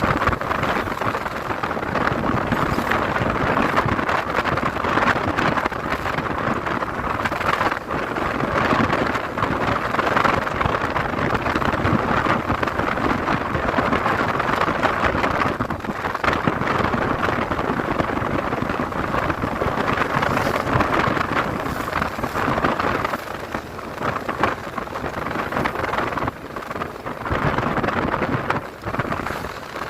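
Steady wind rush over the microphone with road noise from a moving motorcycle. No clear engine note stands out.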